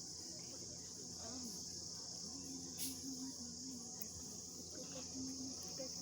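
A steady, high-pitched insect chorus, unbroken throughout, with faint distant voices underneath and one short click near the middle.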